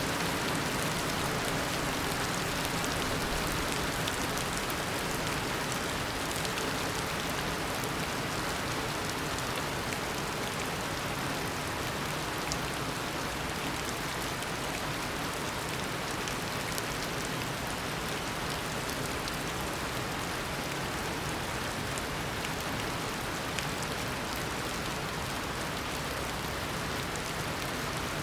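Heavy tropical rain falling steadily in a downpour, an even hiss of rain with scattered individual drop patters.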